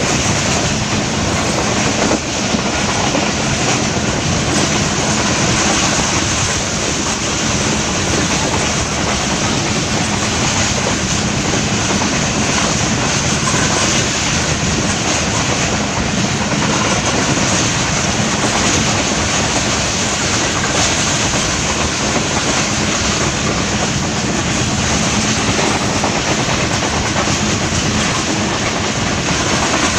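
Pakistan Railways passenger train running at speed, heard from inside a coach at the window: a steady, loud rush of wheels on rails.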